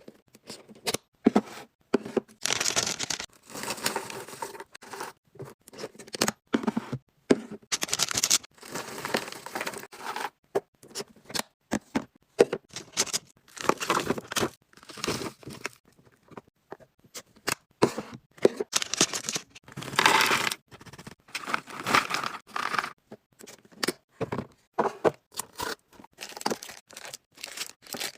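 Food packaging being handled while restocking a fridge: wrappers crinkling and tearing, with sharp clicks and knocks of containers, in irregular bursts with short silent gaps between them.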